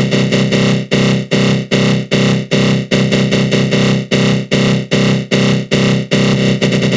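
Synthesized 'attack growl' sound effect from the GMS synth in FL Studio Mobile: a harsh, buzzing synth tone with a flanger, pulsing in even stabs about two and a half times a second. About six seconds in the pulses speed up into a rapid flutter.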